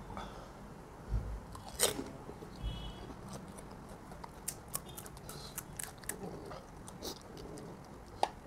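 Crisp pani puri shells being bitten and chewed close to the microphone: irregular crunchy crackles, densest in the second half, with a louder crack about two seconds in.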